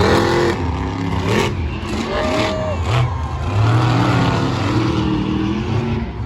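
Monster truck engine running loudly and revving, its pitch rising and falling several times.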